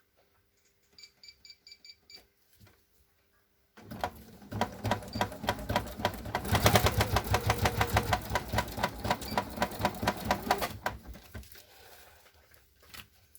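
A quick run of short electronic beeps, then a sewing machine stitching a zigzag seam across paper in a fast, even rattle that runs hardest in the middle and slows to a stop about eleven seconds in.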